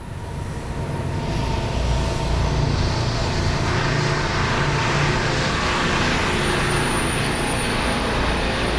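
Diesel-electric locomotives hauling a loaded coal train. The deep engine rumble and the rolling noise of wheels on rail grow louder over the first two seconds as the train comes in, then hold steady.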